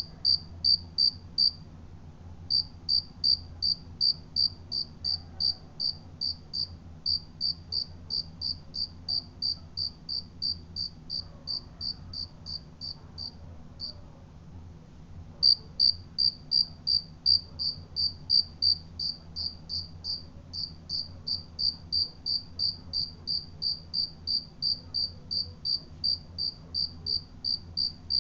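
A cricket chirping: short, high-pitched chirps in an even rhythm of about three a second, pausing briefly about two seconds in and again around the middle.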